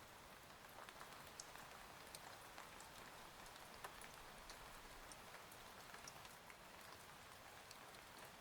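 Faint steady rain, an even hiss dotted with many small individual drop ticks.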